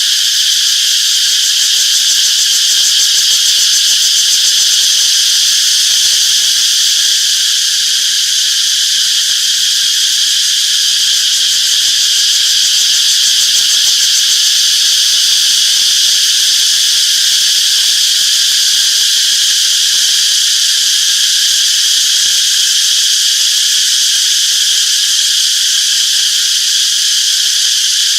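A chorus of cicadas buzzing in a steady, unbroken high-pitched drone.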